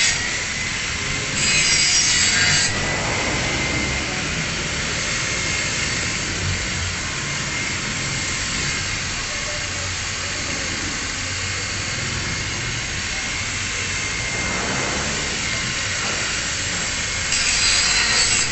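Angle grinder running, its disc grinding a bevel on steel plate. Two louder, harsher spells of grinding come about a second in and again near the end.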